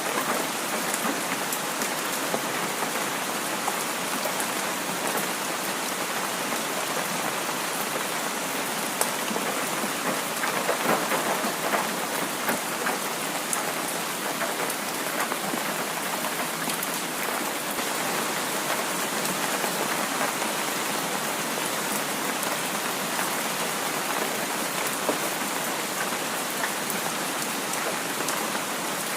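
Heavy rain falling steadily, a dense even hiss of drops, swelling slightly about ten to twelve seconds in.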